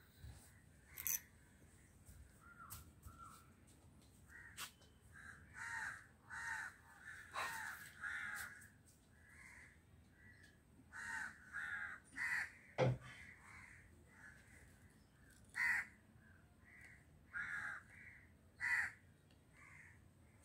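Birds calling over and over in short calls, often about two a second in runs, with one sharp knock about two-thirds of the way through.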